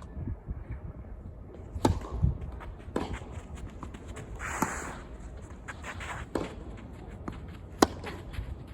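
Tennis ball struck back and forth in a rally: sharp racket hits every second and a half or so, the loudest near the end, with shoes on the court surface between them.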